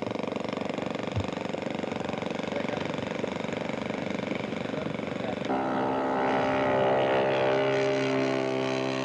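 Radio-controlled scale model airplane engine running steadily. About five and a half seconds in, the sound changes abruptly to a steadier, more clearly pitched drone.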